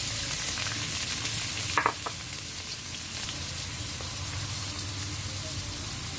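Minced red onion and garlic frying in hot oil in a stainless steel wok: a steady sizzle that eases slightly about two seconds in, with a brief light knock just before.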